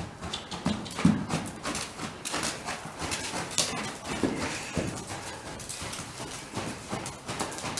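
A ridden horse's hoofbeats: irregular thuds of hooves striking the ground, several a second.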